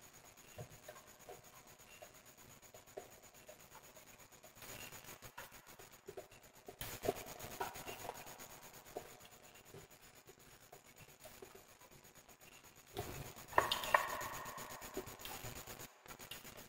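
Wood fire crackling, with a soft hiss and scattered irregular pops and snaps. A louder cluster of pops comes near the end.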